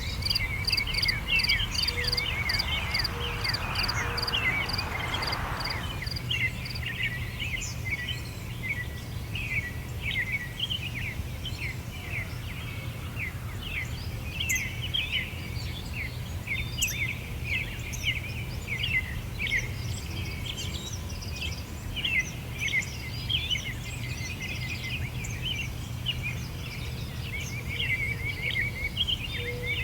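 Many small birds chirping busily in short, rapid chirps over a steady low background rumble. For the first six seconds or so, an insect, cricket-like, trills in even pulses above them, then stops.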